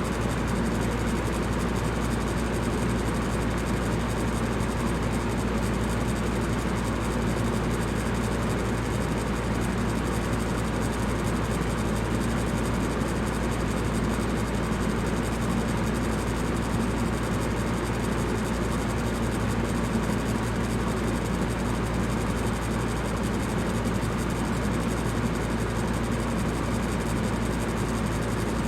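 Electric fan running steadily: an even whooshing hiss over a constant low motor hum, with no change in speed.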